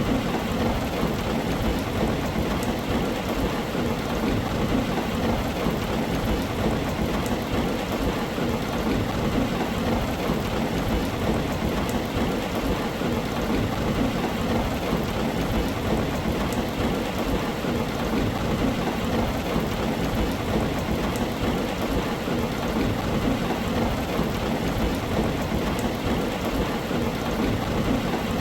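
Steady heavy rain on a tin roof: a dense, even hiss with faint scattered drop ticks and a low, even rumble underneath.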